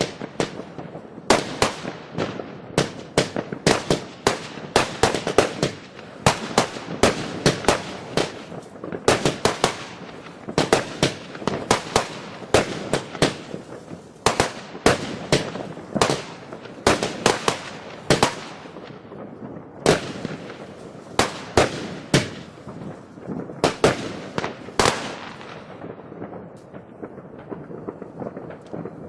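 Fireworks going off in rapid, irregular bangs, several a second, over a steady background crackle. The bangs thin out and come further apart in the last third.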